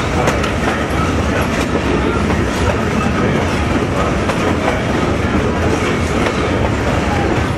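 Steady rumble and clatter of a train's wheels on the rails, heard from on board as it crosses a steel truss bridge, with light irregular clicks over the noise.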